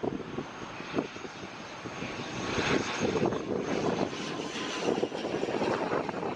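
Twin turboprop engines of an ATR 72-500 airliner arriving to land, growing louder from about two seconds in, with a faint steady whine over the rumble. Wind buffets the microphone throughout.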